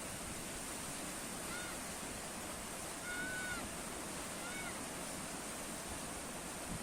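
Sea waves washing in a steady rush of surf. A bird calls three times over it, short rising-and-falling calls, the middle one the longest.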